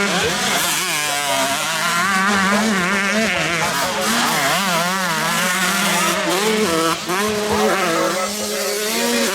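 Several 125cc motocross bikes racing, their engines revving up and down over one another as riders work the throttle through the track.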